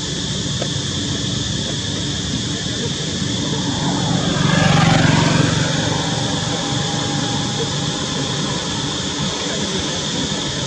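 A vehicle passes close by: its noise swells to a peak about five seconds in and fades away again, over a steady background hiss.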